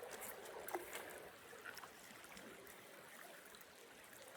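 Faint, steady flowing water of a small creek, with a few light clicks in the first second or so.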